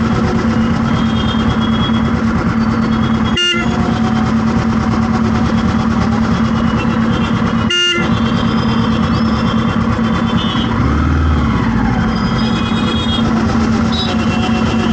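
Heavy road traffic: a steady vehicle engine drone with car horns honking now and then. The sound cuts out briefly twice.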